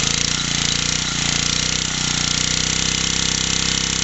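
Small 50cc BSA stationary engine with a directly coupled dynamo, running steadily with a rapid, even firing beat.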